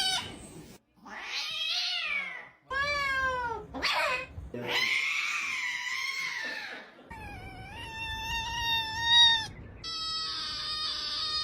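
A cat meowing repeatedly: about six calls, some short and some long and drawn out, wavering in pitch.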